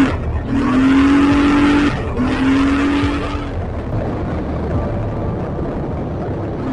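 Polaris Sportsman 335 ATV's single-cylinder four-stroke engine revving under throttle in three bursts, the pitch climbing a little in each, over a broad rushing noise. After about three and a half seconds the engine note drops away and the rushing noise goes on.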